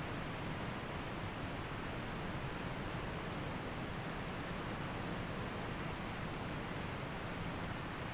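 Waterfall and creek water rushing in a steady, even roar of white noise.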